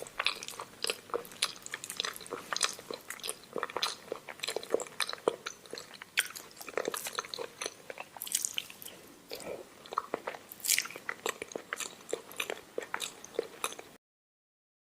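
Close-miked mouth eating sounds: chewing and biting omelette with rice, a fast, irregular run of wet mouth clicks and smacks. It cuts off suddenly near the end.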